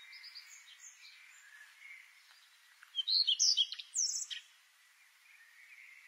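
Small birds chirping: faint twittering, then a loud flurry of quick, high chirps and whistles about three seconds in, lasting just over a second, over a faint steady hiss.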